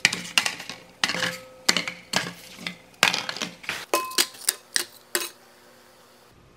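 Cardboard toilet-paper and paper-towel tubes dropped one after another into a glass bowl: about fifteen quick taps and clunks, some with a brief glassy ring, stopping a little after five seconds.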